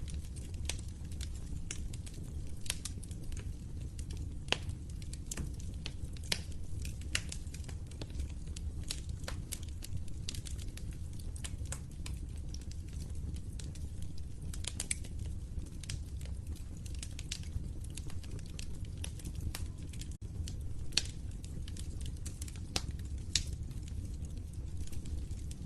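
Wood fire crackling and popping, with irregular sharp snaps over a steady low rumble of the flames.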